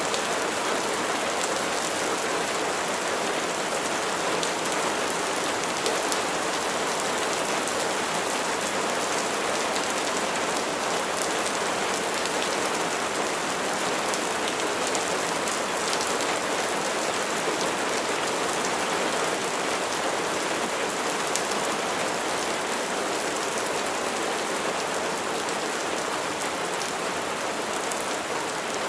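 Steady rain falling: a dense, even hiss of many drops, with faint separate drop ticks scattered through it.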